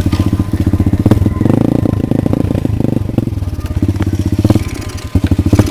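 Pit bike's single-cylinder four-stroke engine running roughly, its firing uneven and faltering, with a brief rise in revs about a second and a half in and a stumble near five seconds. The rider blames the carburetor.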